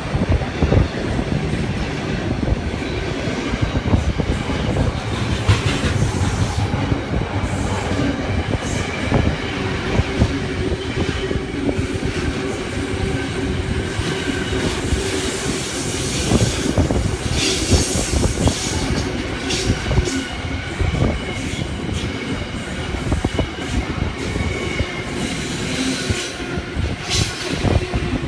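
Wagons of a Pacific National freight train rolling past behind NR class diesel locomotives: a continuous heavy rail rumble with many irregular knocks from the wheels, and a few brief high-pitched hisses near the middle and the end.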